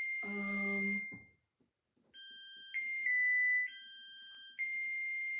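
Electric oven's preheat-complete alert: a short electronic tune of steady beep tones, each about half a second to a second long, stepping between a higher and a lower pitch with short gaps. It signals that the oven has reached temperature.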